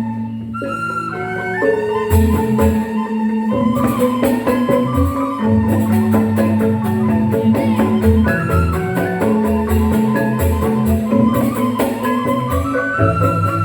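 Balinese joged bumbung gamelan: bamboo xylophones (grantang) playing fast, dense struck figures over a low sustained bass.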